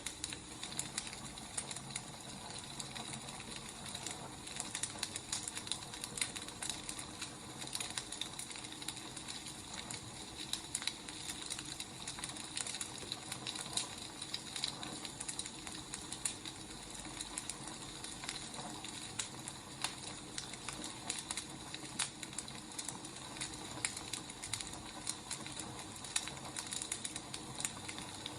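Wood fire burning: a steady soft hiss dotted with frequent small irregular crackles and pops of burning firewood.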